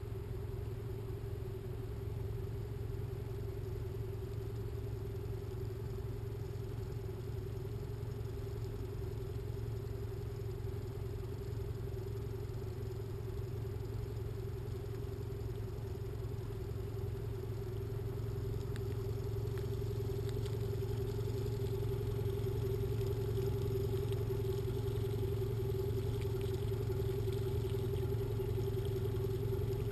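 Boat motor running steadily at trolling speed, a constant low hum with a steady mid-pitched drone above it, getting slightly louder about two-thirds of the way in.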